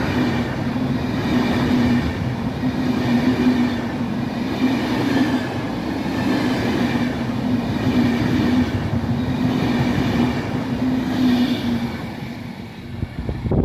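Czech Railjet passenger train passing through the station without stopping: a loud, steady rumble of wheels on rail with a low steady hum, which fades a little and then cuts off suddenly at the very end.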